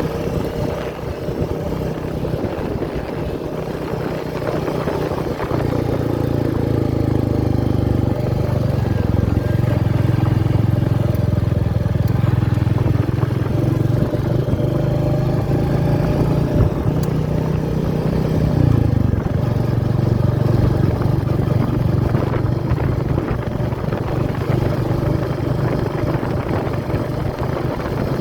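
Royal Enfield Meteor 350's single-cylinder engine running while riding, its note shifting in pitch a few times as the throttle changes.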